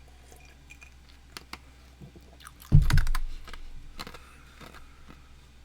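Scattered light clicks and taps like typing on a computer keyboard, with one loud dull thump about three seconds in, over a steady low hum.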